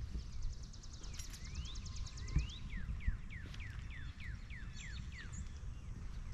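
A songbird singing: a fast high trill about half a second in, then a run of about ten quick downslurred notes. A steady low rumble runs underneath.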